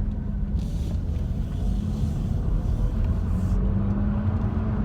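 Car engine and road rumble heard from inside the cabin while driving slowly, with a steady engine note that rises slightly about three and a half seconds in.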